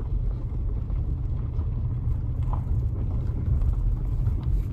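Steady low rumble of a car on the move, heard from inside the cabin of a Toyota C-HR: engine and tyre noise.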